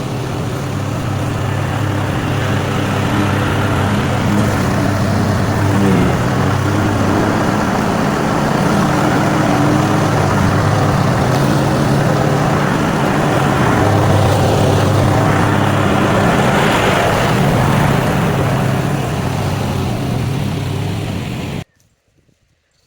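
Small petrol engine of lawn-care equipment running steadily under load, cutting off abruptly near the end.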